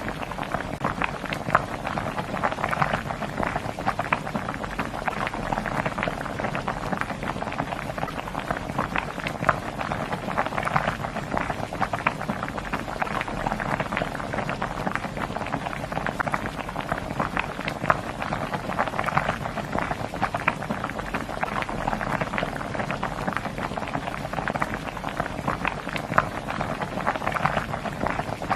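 Food cooking: a steady, dense crackling and bubbling, like a boiling pot or hot frying oil.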